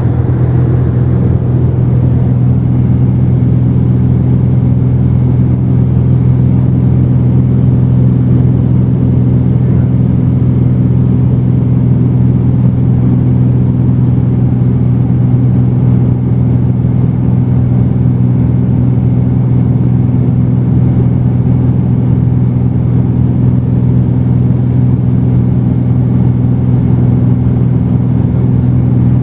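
Cessna 210's piston engine and propeller droning steadily in cruise flight, a loud, even low hum that holds the same pitch throughout.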